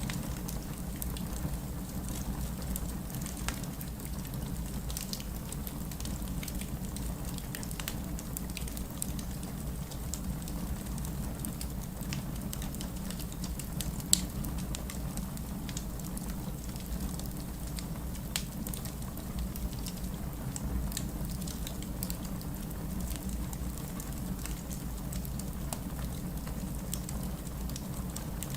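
Steady rain mixed with a fireplace crackling: a continuous low rain hiss with scattered sharp crackles from the fire, one louder pop about halfway through.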